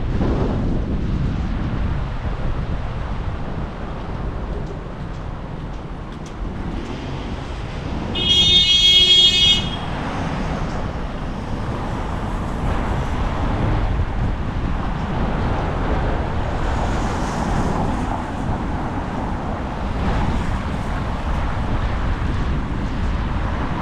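Strong gusting wind buffeting the microphone with passing street traffic, a continuous rumbling roar that rises and falls. About eight seconds in, a loud high-pitched tone sounds for about a second and a half.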